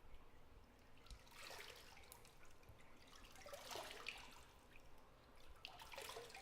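Faint bathwater in a tub sloshing and trickling in three soft swells, about a second in, around the middle and near the end, with small drips between them.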